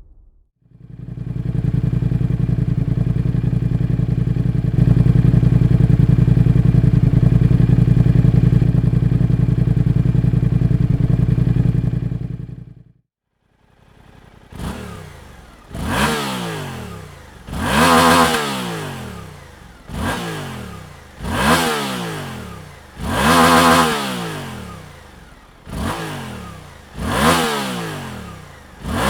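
Suzuki GSX-8S motorcycle's 776 cc parallel-twin engine running steadily for about twelve seconds, then after a short pause revved repeatedly, about eight quick blips each rising and falling in pitch.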